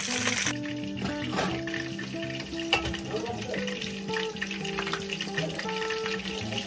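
Breaded cutlets sizzling in hot oil in a skillet, the sizzle cutting off abruptly about half a second in. After that, soft background music with a fainter hiss and a few light clicks of metal tongs against a glass dish and plate.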